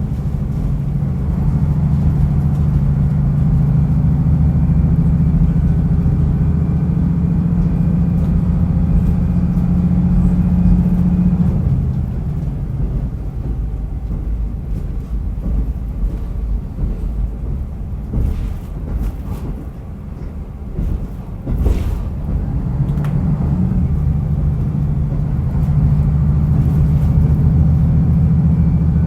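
Diesel railcar running on the line, heard from inside the car: the engine drones steadily under power, then drops away about twelve seconds in as the car coasts with a lower rumble and a few sharp knocks, and the engine drone comes back in around two-thirds of the way through.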